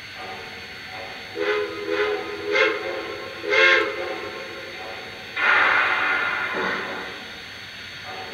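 Lionel Lionmaster Pennsy T1 model steam locomotive's electronic whistle, sounding four short blasts over a few seconds. About five seconds in comes a loud hiss of steam that fades over the next two seconds.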